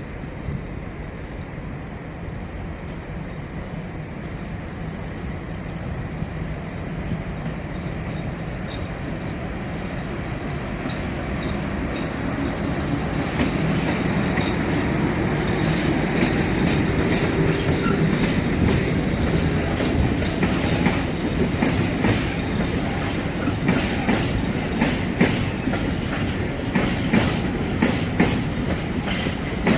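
A train approaching and passing, growing steadily louder over the first half with a low running noise. From about two-thirds of the way in, the wheels click rapidly and irregularly over the rail joints.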